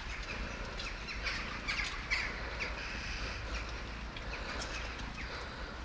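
Small birds chirping in short, falling notes, again and again, over a steady low rumble.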